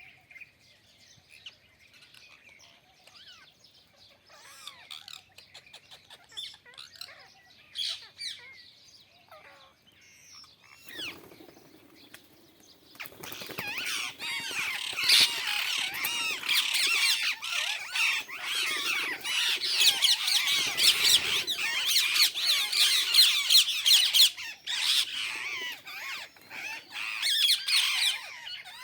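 Parrots squawking and chirping: scattered, fairly quiet calls at first, then from about thirteen seconds in a loud, dense chatter of many overlapping calls.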